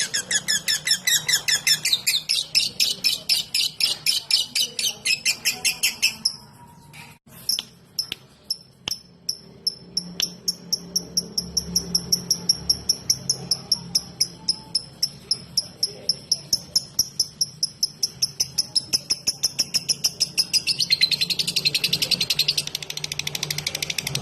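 Lovebird singing its 'ngetik' song: a long, fast run of repeated high chirps like typing. It breaks off briefly about six seconds in, resumes as an even ticking of about four chirps a second, and turns into a dense chatter again near the end.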